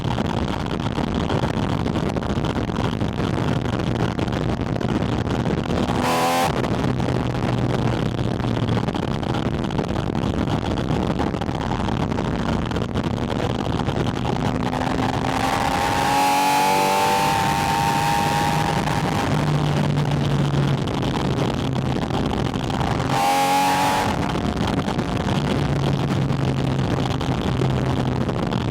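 Porsche 718 Spyder RS's 4.0-litre flat-six running under way, heard through a microphone on its air intake. The engine note rises and falls with the throttle, swelling about halfway through, and breaks briefly twice, about six seconds in and again near the end.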